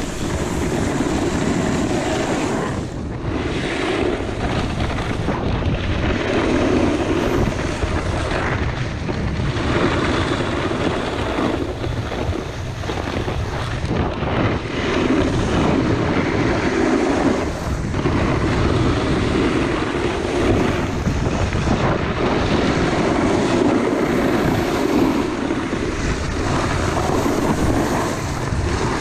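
Wind rushing over the microphone and a snowboard's edges scraping on hard, icy snow, swelling and fading every couple of seconds with the turns.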